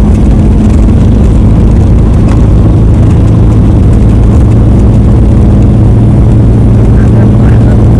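Heavy haul truck's diesel engine running steadily under load, a loud, even drone with a constant low hum.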